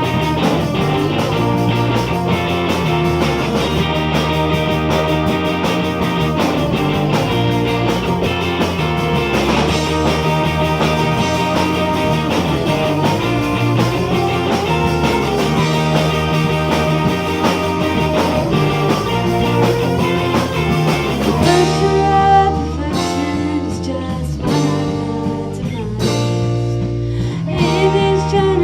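Live rock band playing: electric guitar, bass and drums with cymbals. About 22 seconds in, the drums and cymbals drop out, leaving guitar and bass.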